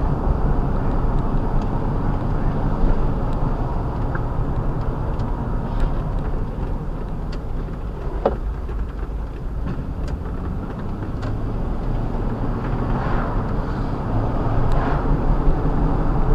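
Large truck engine running steadily, with a few faint ticks over it.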